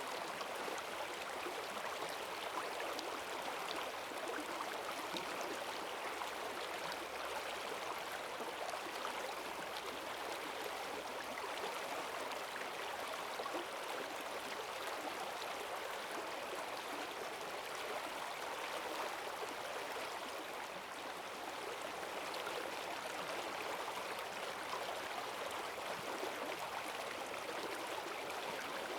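A forest stream swollen with rainwater, rushing and gurgling with strong currents, at a steady level.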